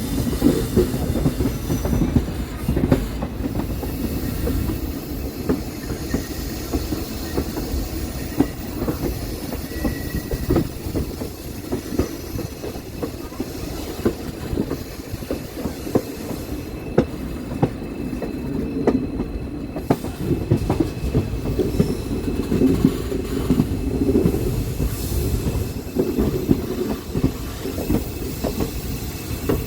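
Train running on the rails: a steady rumble with frequent sharp clicks of wheels over rail joints.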